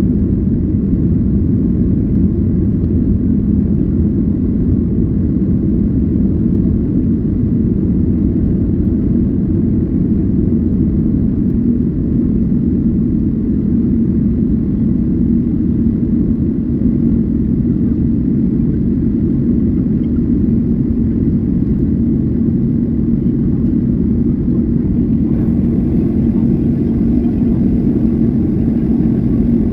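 Steady low rumble of wind and sea at the shore, unchanging throughout.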